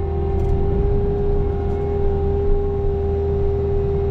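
Bobcat T66 compact track loader's diesel engine running steadily with its snow blower attachment, a constant whine held over the engine's low rumble.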